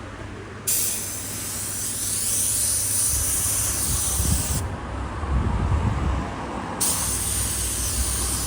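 Spray hissing from a nozzle in two long bursts, the first about four seconds and the second about two seconds, over a low rumble.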